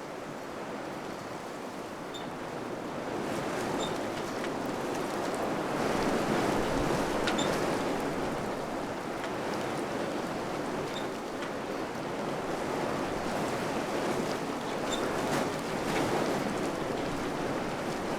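Wind blowing in gusts, swelling about three seconds in and rising and falling after that, with a few faint high ticks.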